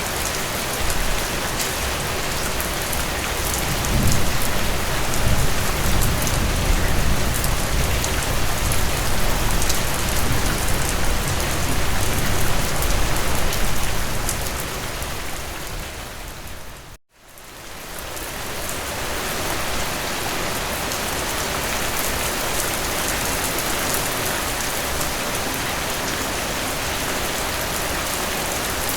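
Steady heavy rainfall hissing evenly, with stronger low rumbling between about 4 and 14 seconds in. About 17 seconds in it fades down to a moment of silence and fades straight back up.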